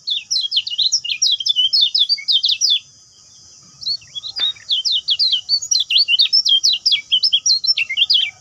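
Lemon-bellied white-eye (kecial kuning) singing a fast, high twittering song of rapid chirps. The song breaks off for about a second a third of the way through, then resumes.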